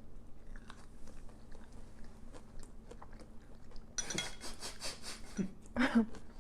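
Close-up chewing of crispy breaded, oven-baked onion rings: quiet munching, then a loud crunchy bite about four seconds in that crackles for about a second, and another sharp crunch a moment later.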